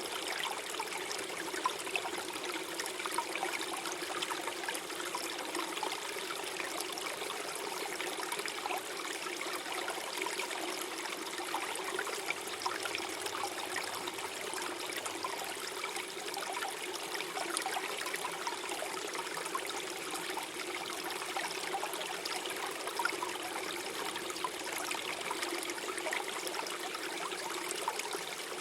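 Small stream flowing over stones, a steady gurgle and trickle of running water with small splashes.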